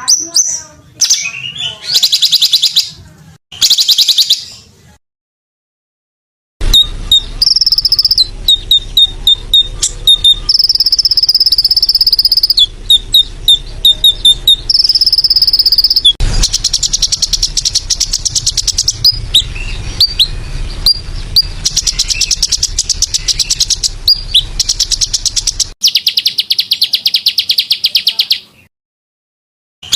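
Recorded small songbirds singing: fast, buzzy high trills that sound insect-like, mixed with quick repeated chirps and a few held high whistles. Short bursts come first, then a pause, then an unbroken run of song that stops shortly before the end, with a faint low hum under the middle part.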